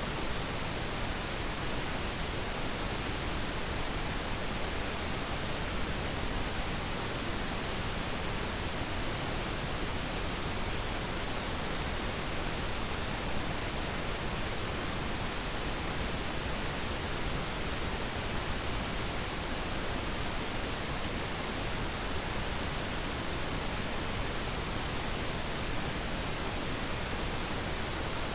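Steady pink noise, an even hiss with nothing else in it.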